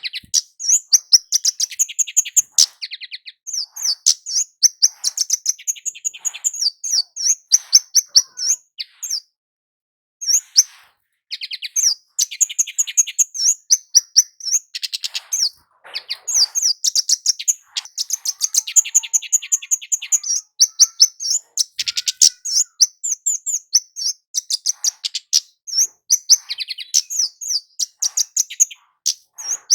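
Scarlet-headed flowerpecker (kemade jawa) singing loudly: long runs of rapid, high, thin chirping notes, broken by short pauses, with a longer break about a third of the way in.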